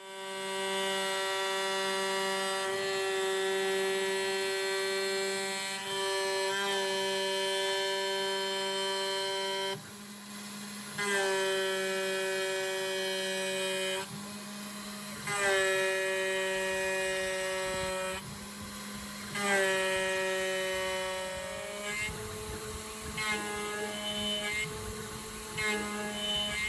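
Home-made CNC router's spindle whining as an end mill roughs out a 6082 aluminium block. In the second half the whine comes in surges every few seconds, its pitch sagging as the cutter bites into the metal. Near the end it turns to short, choppy chirps.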